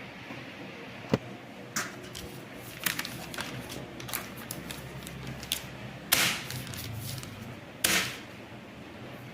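Sogo SG-5603 56-inch industrial ceiling fan running with a steady low hum. Over it come a series of sharp clicks and knocks, and two short, louder rushing noises about six and eight seconds in.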